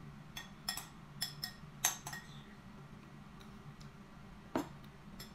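Metal spoon clinking against a ceramic soup bowl: a quick run of about six bright, ringing clinks in the first two seconds, then two more, the last near the end.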